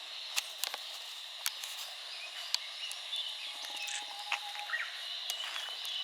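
Outdoor woodland ambience: a steady high hiss with scattered light clicks, a held whistled note about halfway through and a brief bird-like chirp near the end.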